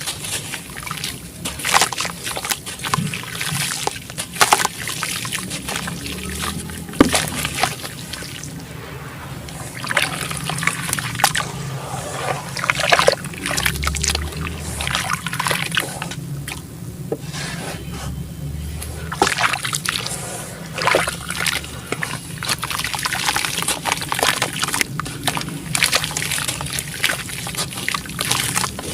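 Sand-cement chunks crumbling in water, with a continual run of small crackles, trickles and sloshes.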